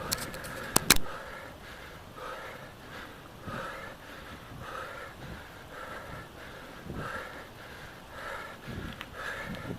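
A person panting hard with quick, even breaths, the sound of heavy physical exertion. A few sharp clicks come within the first second.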